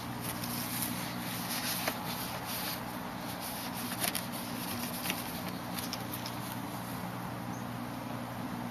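Cloth rag rustling and rubbing restoration compound onto an oxidized plastic headlight lens by hand, in irregular scrapes with a few light clicks, over a steady low hum.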